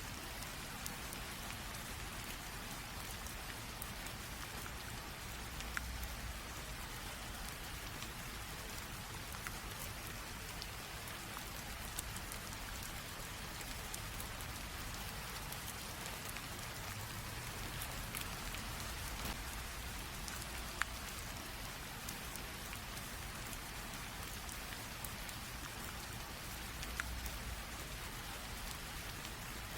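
Light rain drizzling steadily, a soft even patter with scattered sharper drops ticking.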